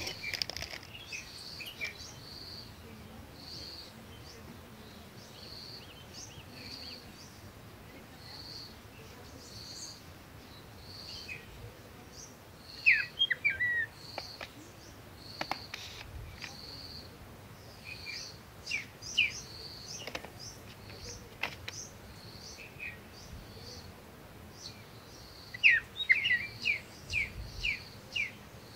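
Small birds chirping: a short high note repeated about once a second, with a few bursts of quick, falling chirps, the loudest near the middle and near the end.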